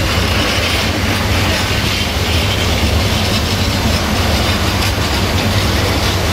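Open high-sided freight wagons rolling past close by: a steady, loud noise of wheels running on the rails.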